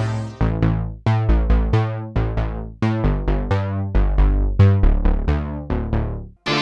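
Sequential Prophet-5 Rev4 analog synthesizer playing a low, plucky patch: a run of short notes, two to three a second, each with a bright attack that quickly turns dull as the filter closes. Just before the end the notes stop and a sustained, brighter patch comes in.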